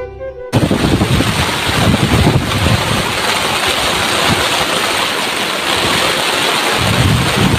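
Heavy rain pouring down in a strong wind, a dense steady hiss with gusts buffeting the microphone as low rumbles. It cuts in about half a second in, just as a flute tune ends.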